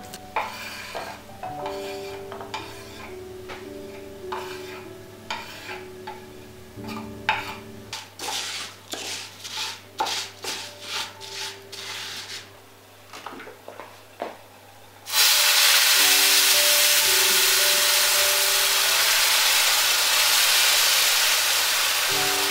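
Kitchen utensils clicking and stirring in a pan for about fifteen seconds, then a sudden loud, steady sizzle as food hits hot oil and starts frying, with soft background music throughout.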